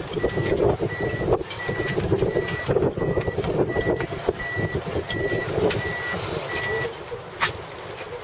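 Electronic warning beeper sounding a steady single-pitch beep just under twice a second, stopping near the end, over an uneven rushing noise. A sharp click comes near the end.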